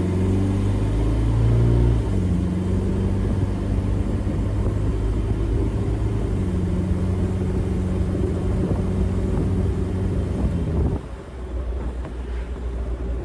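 A swapped-in VW 1.9 TDI (BEW) four-cylinder turbodiesel in a Jeep TJ Wrangler accelerating under load, its pitch climbing, then the AW4 automatic shifting up about two seconds in, with the engine dropping in pitch and then holding steady. Near the end, the engine sound falls away sharply to a lower rumble.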